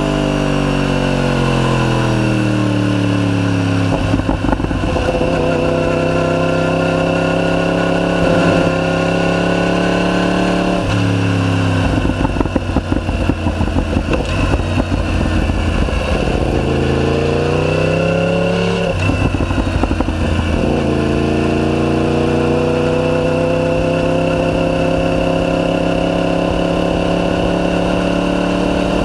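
Yamaha YZF-R1's crossplane inline-four through a decatted Akrapovic full titanium exhaust, under way. The engine note falls away over the first few seconds, then climbs in pitch as the bike accelerates, dropping suddenly at gear changes about 11 and 19 seconds in, with stretches of crackling around 4 seconds and between 12 and 15 seconds.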